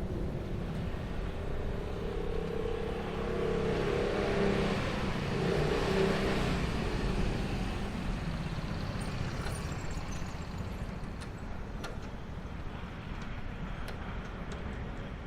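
Freight train hauled by an EF510 electric locomotive passing: a continuous rumble of steel wheels on rail, loudest about four to six seconds in with a hum from the locomotive. Then the steadier run of the container wagons, with scattered sharp clicks.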